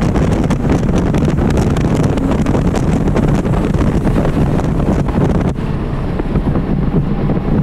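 Porsche Cayman R's flat-six engine pulling hard in third gear, heard from inside the cabin under heavy wind and road noise. It eases off about five and a half seconds in as the car brakes for the next corner.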